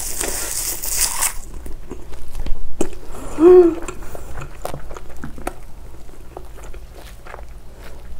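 Close-miked chewing of a mouthful of rice and soy-marinated crab roe wrapped in raw laver (gim). It opens with about a second of crackly rustling as the bite goes in, then continues as wet chewing clicks, with a short hummed "mm" of enjoyment about three and a half seconds in.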